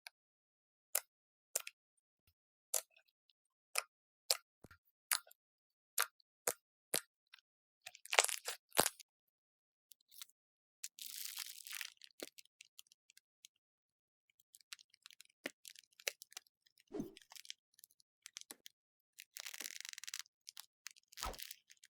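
Slime being handled for ASMR: a run of sharp clicks and pops about twice a second, then bursts of crunching and crackling, as from crunchy slime being squeezed and pressed.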